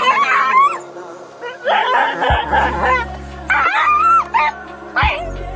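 A dog stuck in mud whimpering and yelping in distress, in several short pitched cries, over background music with a steady bass.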